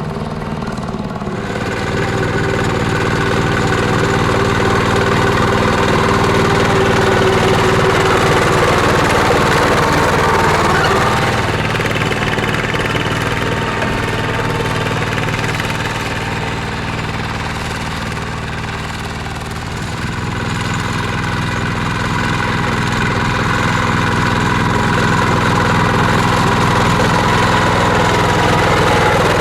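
Mini tractor's engine running steadily while plowing a field. It grows louder about two seconds in, eases off for a few seconds past the middle, then picks up again.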